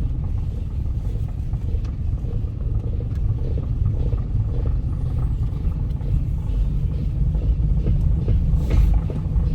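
Car driving with a window open: a steady low rumble of tyre and road noise, with a tyre making a bad noise.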